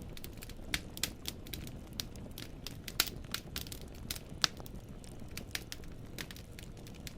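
Wood fire in a fireplace crackling: irregular sharp pops and snaps of burning firewood, several a second, over a low steady rumble of the flames. Two louder pops come about three and four and a half seconds in.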